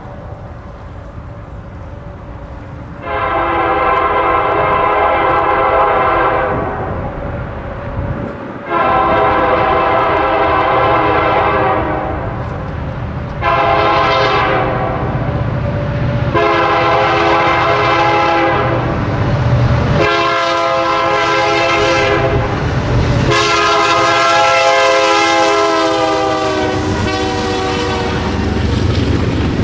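Diesel freight locomotive's multi-note air horn sounding long, long, short, long for a grade crossing, then another long blast that drops in pitch as the locomotive passes. Engine rumble runs underneath.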